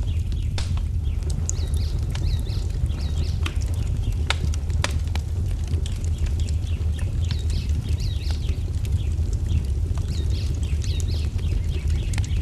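Wood fire crackling in a fireplace, with a steady low rumble and a few sharp pops, two of them close together near the middle. Small songbirds chirp repeatedly over it in short high calls.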